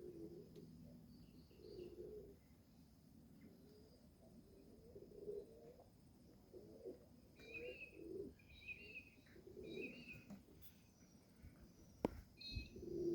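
Domestic pigeons cooing, low coos repeating every second or two, faint. Higher chirps come in around the middle, and there is one sharp knock near the end.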